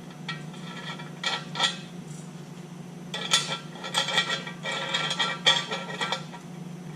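Small metal parts and fittings clinking and rattling as they are handled: a couple of clinks about a second in, then a longer run of clinking from about three to six seconds.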